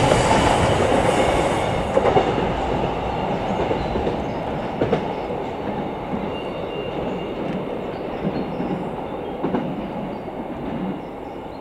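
Freight train running past, its wagon wheels clattering over the rail joints with a few sharp knocks. The noise fades steadily as the train moves away.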